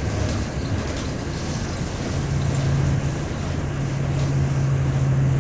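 City bus engine running, with a steady low hum coming in about two seconds in.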